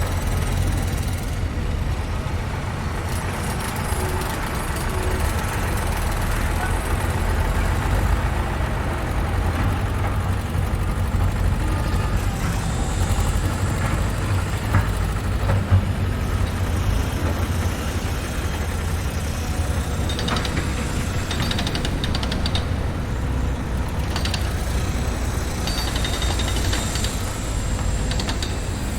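Construction-site machinery and trucks running with a steady, deep rumble. A few sharp clanks come about halfway through, and rapid metallic ticking comes near the end.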